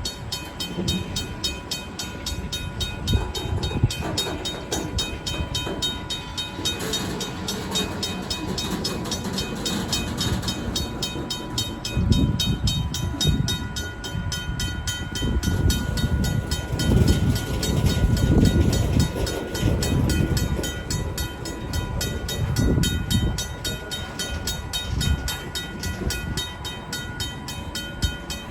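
RACO mechanical railroad crossing bell ringing in steady, rapid strokes while a Union Pacific freight train's cars roll through the crossing, their wheels rumbling and clanking, louder in the second half.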